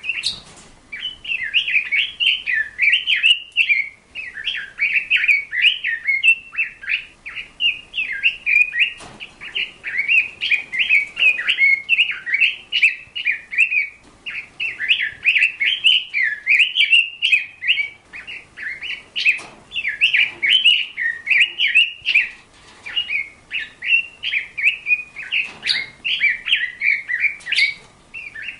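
Bird chirping and warbling in a fast, almost unbroken chatter, with only a few brief pauses.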